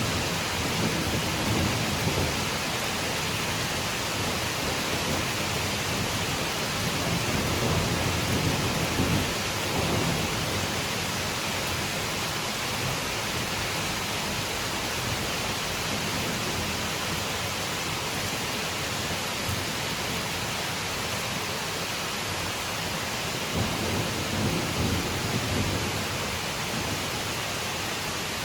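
Steady rain falling on leaves, with low rumbles swelling and fading about three times.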